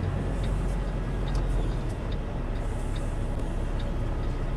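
Semi truck's diesel engine running steadily at low speed while the rig is eased back and forth. A faint, regular tick sounds a little under once a second.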